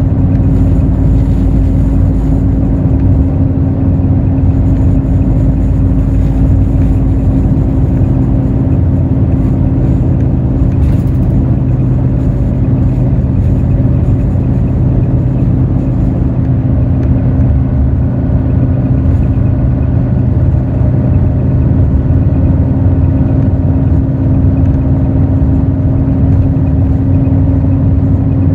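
Hino J08E-VD diesel engine of a Hino RN8JSVU-SSF intercity bus running at a steady engine speed, heard from inside the bus, with a constant hum and road rumble.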